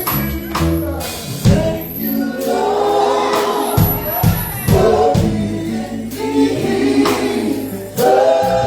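Gospel group singing in harmony over live band accompaniment, with steady bass notes and regular drum hits.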